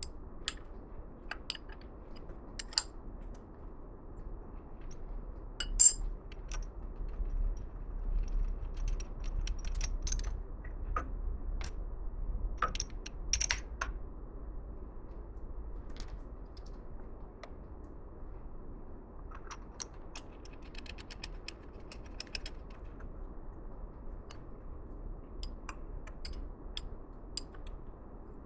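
Metal tools and parts clinking and tapping on a workbench: scattered sharp clicks, the loudest about six seconds in, over a low steady hum.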